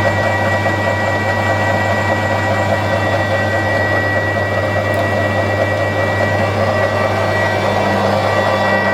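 HBM 400 x 1000 centre lathe running: a steady machine hum with a constant high whine over it.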